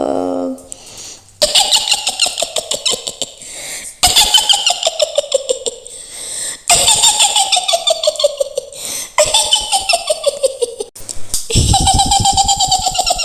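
A woman's high, shrill witch's cackle in the voice of Mak Lampir, right after the end of a called "gerandong?". The rapid laugh comes in about five bursts, each sliding down in pitch.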